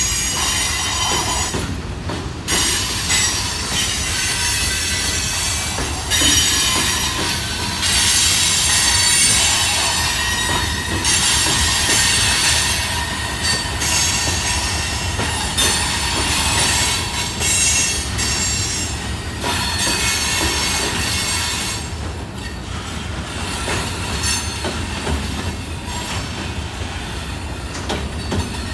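Covered hopper cars of a freight train rolling past, with a steady low rumble and a high metallic squeal from the wheels that comes and goes, loudest in the middle and easing off near the end.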